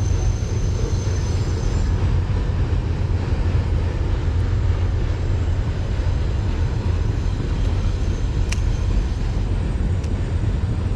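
Train passing, a steady low rumble with a rushing noise spread over it.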